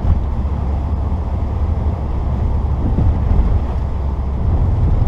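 Steady low drone inside the cabin of a 1994 Saturn SL2 on the move in snow: its twin-cam four-cylinder engine and road noise, growing a little louder near the end.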